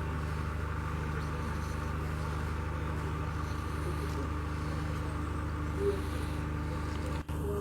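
An engine running at a steady speed: a low, even drone that drops out for an instant near the end.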